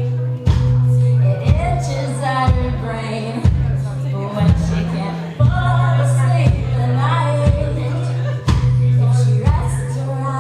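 Live rock band playing: a heavy sustained bass note under a drum hit about once a second, with a voice singing two phrases over it.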